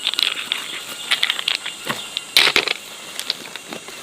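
Scattered clicks, knocks and rustling of handling, irregular, with the loudest cluster about halfway through, over a faint steady high insect buzz.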